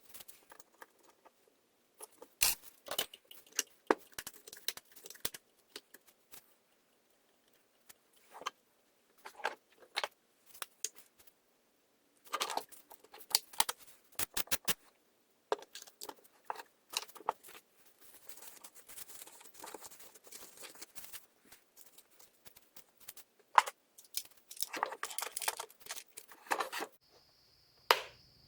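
Scattered clicks, rattles and clatter of things being handled, in short irregular bursts. Near the end a steady high tone and a low hum begin.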